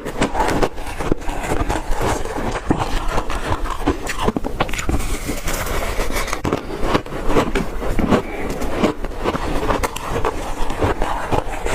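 Ice being chewed: dense, irregular crunching, one crunch after another.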